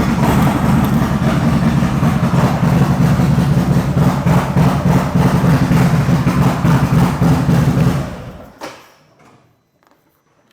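Harley-Davidson Road Glide V-twin running steadily through a Trask 2-into-1 exhaust, then shut off about eight seconds in, with a brief knock just after it dies.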